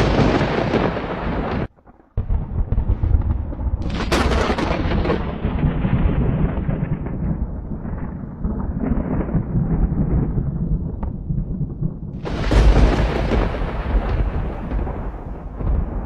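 Thunder: three sharp cracks, at the start, about 4 s in and about 12 s in, each followed by a long rolling rumble. The sound cuts out briefly just under 2 s in.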